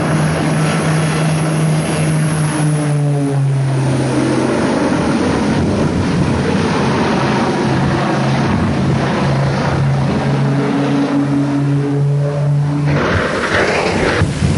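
Propeller aircraft engine running with a steady hum that drops in pitch about four seconds in and climbs again later, over heavy wind-like noise. The engine tone gives way to noise near the end.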